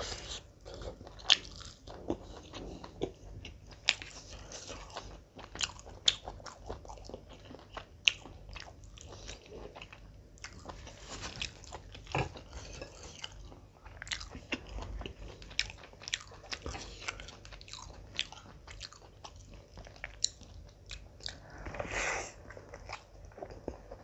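Close-miked chewing and biting of a person eating mutton dum biryani and chicken leg roast by hand: a continuous run of wet smacks and crisp clicks of uneven loudness.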